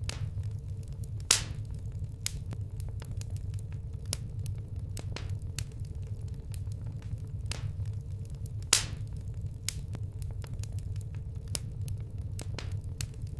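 Campfire of burning wood crackling: irregular sharp snaps and pops over a steady low rumble, with two louder pops about a second in and near the nine-second mark.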